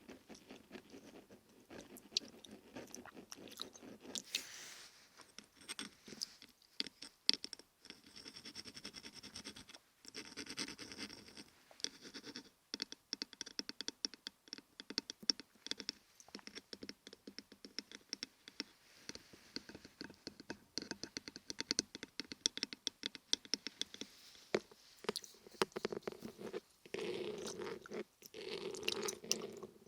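Close-miked ASMR trigger sounds: dense, irregular scratching and crackling made of many small clicks, with brief pauses, growing fuller near the end.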